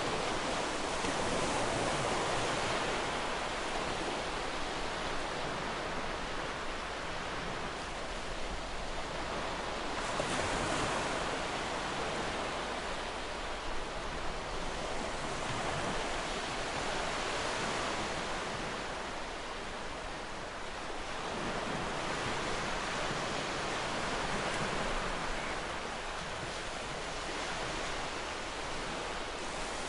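Ocean waves breaking and washing ashore: a steady rush of surf that swells and eases slowly every several seconds.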